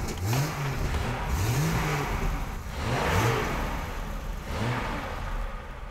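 Triumph Vitesse straight-six engine, transplanted into a Herald estate, running and revved several times, the pitch rising and falling with each blip of the throttle.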